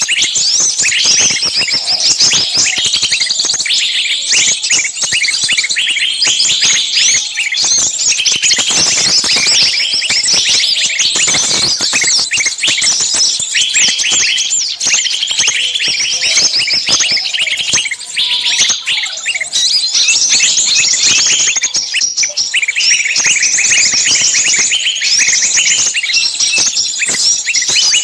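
Many small birds chirping at once in a dense, continuous chorus of rapid, overlapping high chirps.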